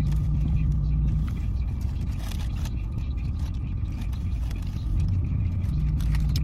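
Steady low rumble of a car's running engine heard from inside the car, with a hum that drops away about a second in and returns near the end, and a few faint clicks.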